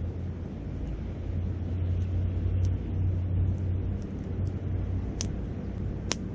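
Wind rumbling low on the microphone beside a campfire, with a few sharp crackles and pops from the burning wood, the loudest two a second apart near the end.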